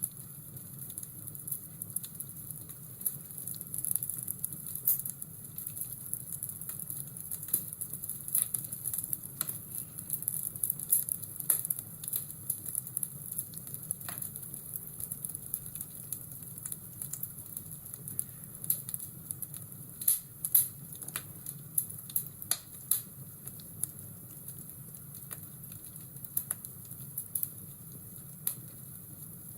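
Fireplace ambience: a wood fire crackling, with irregular sharp pops and snaps over a steady hiss.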